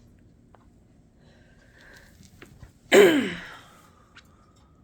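A single short, loud sneeze-like vocal burst about three seconds in, a sharp noisy onset followed by a voice that falls in pitch and quickly fades.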